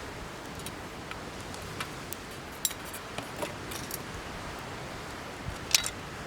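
Bonfire crackling, with irregular sharp pops, the loudest near the end, over a steady background hiss.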